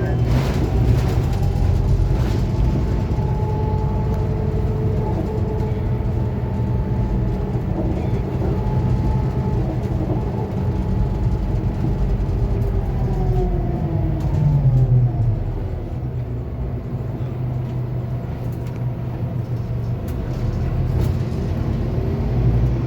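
Scania K280UB city bus on the move: engine and drivetrain running with a steady whine that drops in pitch about thirteen seconds in as the bus slows, then rises again near the end as it pulls away.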